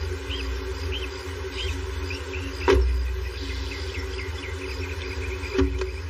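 Birds chirping: a short chirp repeated about every two-thirds of a second, then a quicker run of chirps about halfway through. Under it is a steady low hum, with two knocks about three seconds apart.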